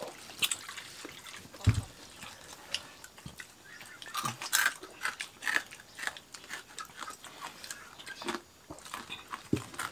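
People eating with their hands: irregular chewing and lip-smacking sounds with small scattered clicks, and one dull knock about two seconds in.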